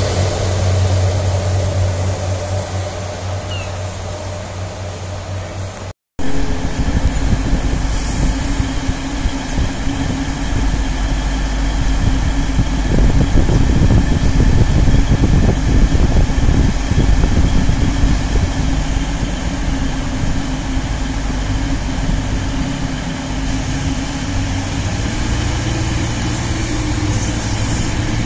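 Train engine running with a steady low hum that slowly fades. About six seconds in the sound cuts off abruptly, and a louder, rumbling engine sound takes over.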